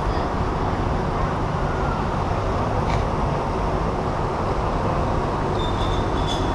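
Steady rushing noise of a river rapids ride's water heard from aboard the raft, with a single short click about three seconds in.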